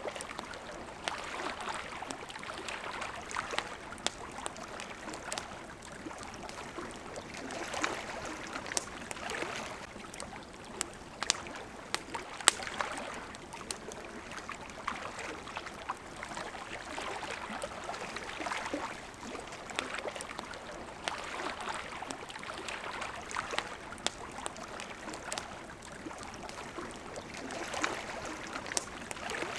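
Small waves lapping at the water's edge in slow swells every few seconds, with a campfire crackling over it in sharp snaps and pops, a few of them louder, the loudest near the middle.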